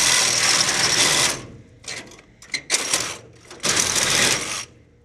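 Reciprocating saw cutting through the chiller's metal tubing. It runs in bursts: one long cut that stops about a second and a half in, then two shorter cuts near the end.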